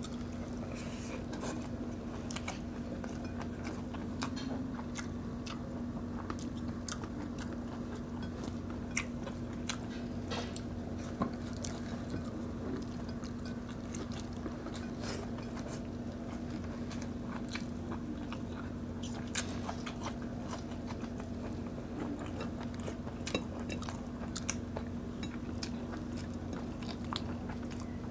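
Close-miked chewing of grilled fish and rice eaten by hand, with frequent sharp wet mouth clicks and lip smacks over a steady low hum.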